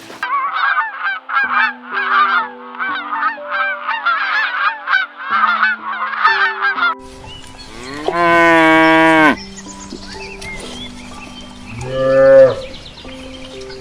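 A flock of poultry calling in rapid, overlapping cries for about seven seconds. Then a cow moos: one long moo, and a shorter one a few seconds later.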